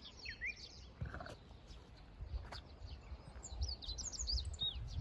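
Small birds chirping, with a quick run of high twittering calls near the end, over a low rumble of wind on the microphone.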